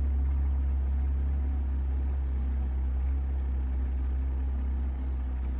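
A boat's outboard motor running steadily, a constant low drone.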